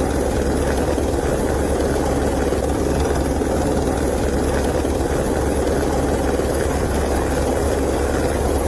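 Helicopter running steadily, a continuous drone of rotor and engine.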